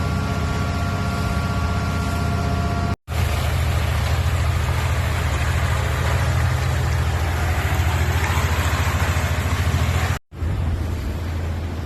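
A motor vehicle engine running steadily with a low hum, with a faint steady whine over it for the first few seconds. The sound drops out briefly twice at edit cuts, about three seconds in and near the end.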